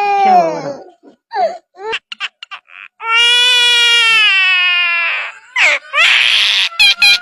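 A bird giving long, wailing calls that sound like a crying baby, each held about two seconds, with short chirps and clicks between them; near the end it breaks into a rapid run of short rising calls.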